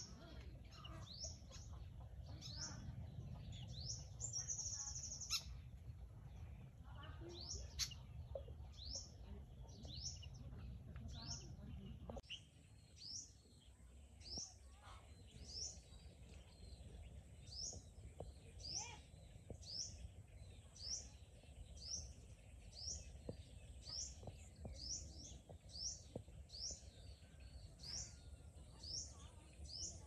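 A bird calling over and over in short, high, rising chirps, a little more than one a second. A low background rumble under the first part stops abruptly about twelve seconds in.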